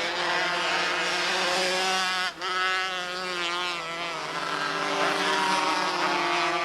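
Engines of several small race cars running together on the track, their pitches rising and falling as they lap. The sound briefly drops out about two seconds in.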